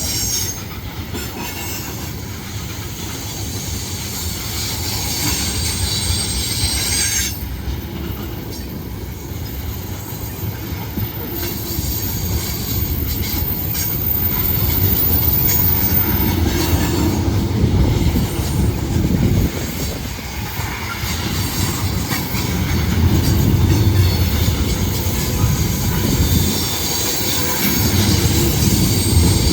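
CSX freight train rolling past on the mountain grade: a heavy low rumble of wheels on rail that swells and fades as the cars go by. A thin high-pitched tone rings for several seconds in the middle.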